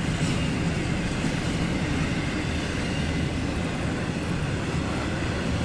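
CSX intermodal freight train rolling by, a steady low rumble with hiss and no distinct clanks.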